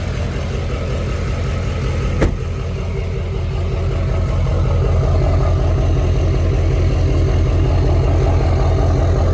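2016 GMC Sierra Denali pickup's engine running at idle with an even low pulse, growing gradually louder over the first few seconds. A single sharp click about two seconds in.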